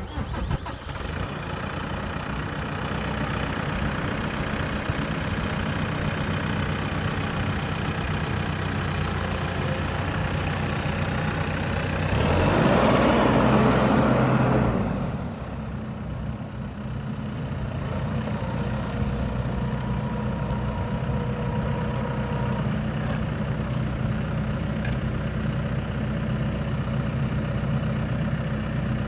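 New Holland T4.80V tractor's diesel engine running steadily. It is revved up for about three seconds in the middle, then drops back and settles to an even idle.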